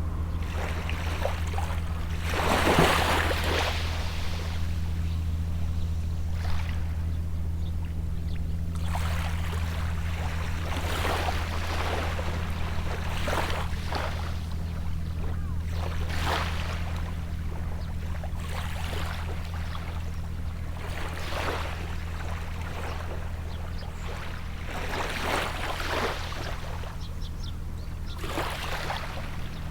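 Small sea waves washing onto the shore every few seconds, the biggest about three seconds in, over the steady low drone of a distant boat engine.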